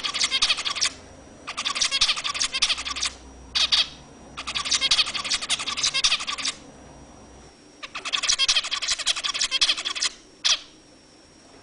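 Caged songbird singing in bursts of rapid, repeated high notes, each phrase lasting one to two seconds, with short pauses between them and a single brief note near the end.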